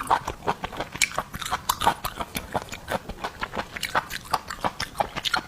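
Close-miked chewing and biting: wet, sticky mouth sounds with quick irregular clicks, several a second, as seafood is eaten.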